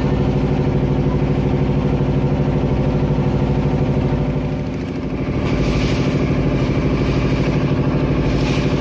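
A klotok river boat's single-cylinder diesel engine running steadily with a rapid, even chugging. Its level dips briefly about halfway through, and after that a hiss joins in over the engine.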